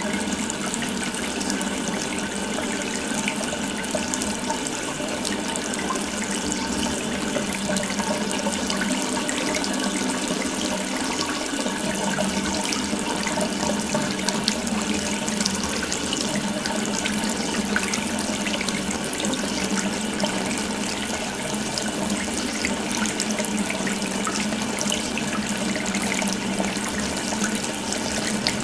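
Water running steadily from an open faucet, a continuous even splashing rush with no change in flow.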